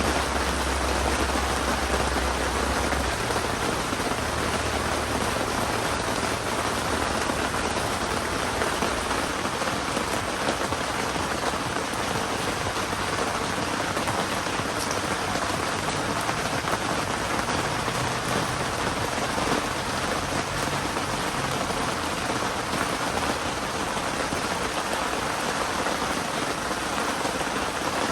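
Heavy typhoon rain falling steadily, with a low rumble under it for the first few seconds.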